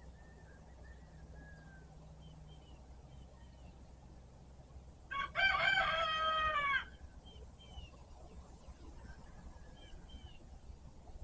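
A rooster crowing once, about five seconds in, a single loud crow lasting under two seconds. Faint, short chirps of small birds come before and after it.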